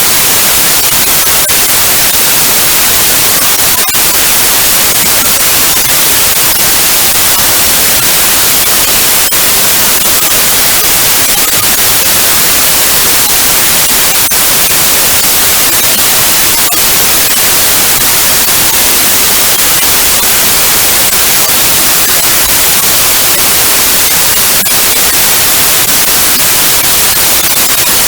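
Digitally generated white noise: a loud, steady, even hiss with no changes.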